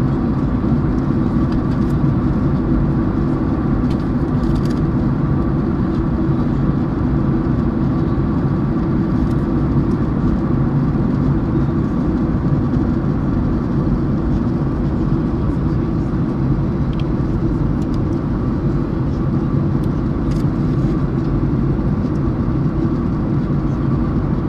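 Steady drone inside an airliner cabin in flight, from the engines and the air rushing past. It is a deep, even rumble with a low hum and a faint high whine.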